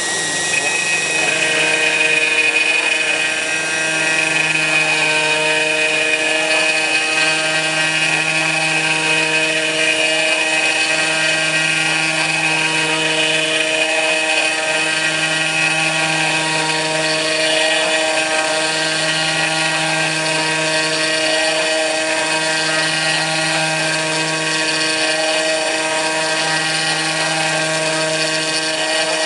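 Kress FME-1050 router, used as a CNC spindle, running at high speed and milling aluminium: a steady high whine with cutting noise, and a low hum underneath that comes and goes about every two to three seconds.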